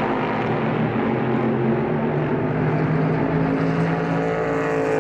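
Super GT race car engine running steadily, its pitch rising near the end as it revs up.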